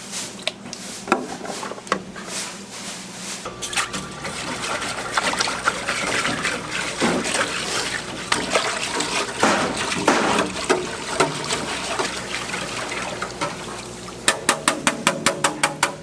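Running water with kitchen clatter; a low hum starts a few seconds in. Near the end comes a quick, even run of about a dozen sharp taps.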